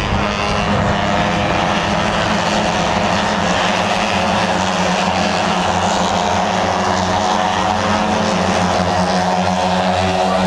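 A steady engine drone at an even pitch and level, with no clear rise or fall.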